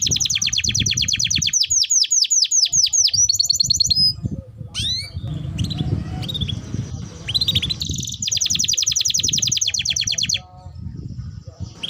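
Domestic canary singing: long, fast rolling trills of repeated high notes, one over the first four seconds and another starting about eight seconds in, with short rising chirps between them.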